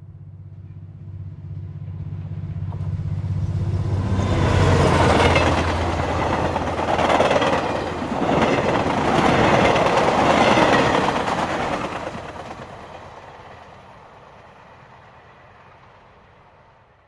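A train passing by: a low rumble builds over several seconds into loud clattering rail noise, loudest in the middle, then fades slowly away.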